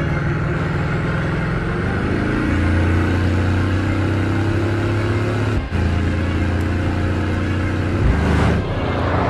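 Bugatti Chiron's quad-turbocharged 8.0-litre W16 engine pulling hard at speed, its note stepping up about two seconds in. A short break in the sound comes past the middle, and near the end there is a rushing pass-by.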